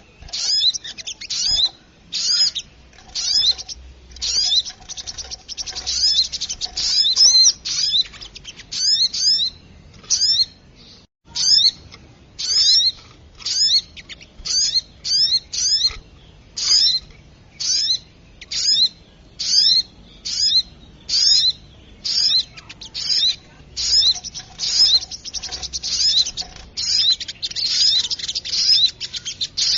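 Recorded calls of a small bird, the sogok ontong, played as a trapping lure: rapid high chirps, each sweeping downward, repeated in quick bursts almost without pause, with one short break a little past the middle.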